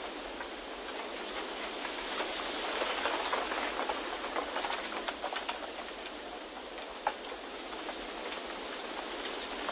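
Wind ambience: a steady rushing hiss that swells slightly a few seconds in, with many light ticks and patters scattered through it.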